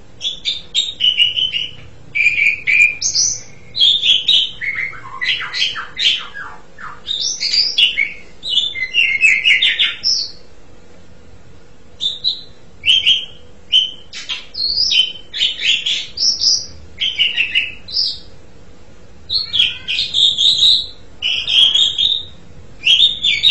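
Asian pied starling (jalak suren) singing a long run of varied chirps, whistles and rough notes, with a pause of about two seconds near the middle.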